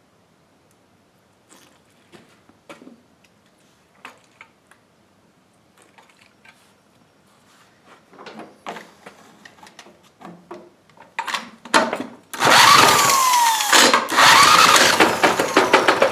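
Faint scattered clicks and knocks of parts being handled, then about twelve seconds in a power tool starts suddenly and runs loudly, its pitch dropping and then rising again.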